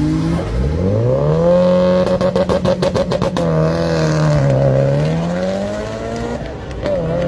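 Audi S5 engine revving up hard on the start line, held high with a rapid stuttering crackle for about a second, then launching down the drag strip. Its pitch drops and climbs again twice as it shifts up and pulls away.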